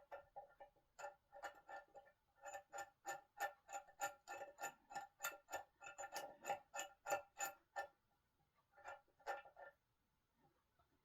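Faint, even metallic clicking, about four clicks a second, stopping for a moment and resuming briefly near the end: a ratchet turning a bolt to fasten a solid-wood dining table during assembly.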